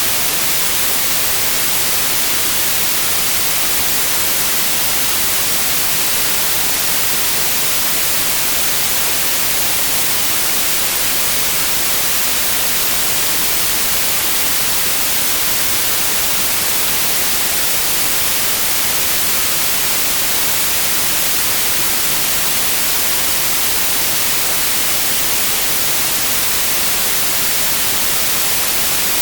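Steady, unchanging white noise: an even hiss across all pitches, brightest in the highs.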